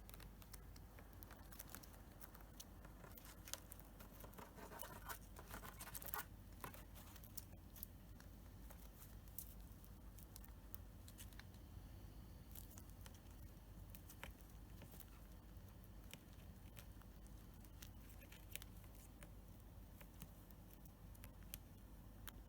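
Cockatiel nibbling and chewing at small objects: faint scattered clicks and scratches, with a denser run of scratchy crunching about four to six seconds in.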